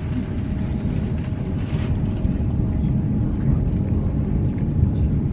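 Great Western Railway passenger train running, heard from inside the carriage: a steady low rumble with a faint steady hum, and a brief hiss about two seconds in.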